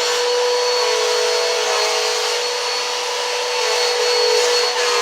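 Upright vacuum cleaner running steadily on carpet: an even motor hum with a constant whine and airflow hiss.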